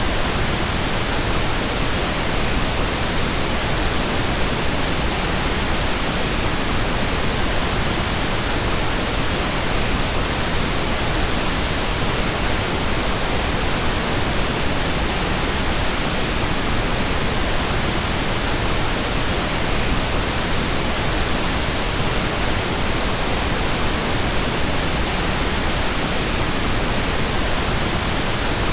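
Continuous, steady pink noise: an even, unchanging hiss across the whole range of pitch.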